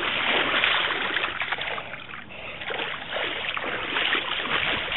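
Bicycle wheels churning and splashing through a deep puddle of muddy water: a continuous rough splashing, easing briefly about two seconds in.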